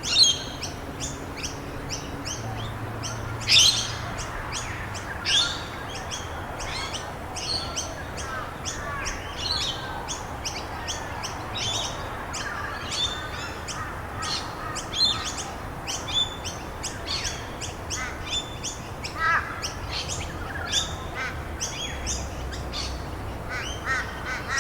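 Several birds chirping and singing, with many short calls overlapping throughout, over a steady background hiss.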